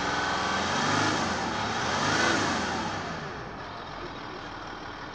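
A 2013 Ford Territory's 2.7-litre V6 turbo diesel engine is revved twice, then drops back to a steady idle about three seconds in.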